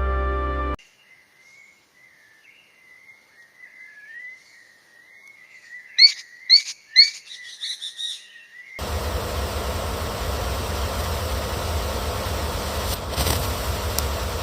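A bird whistling a thin, wavering high note, then three loud, sharp rising chirps about six seconds in, followed by a few softer calls. From about nine seconds a steady rushing noise with a low rumble takes over.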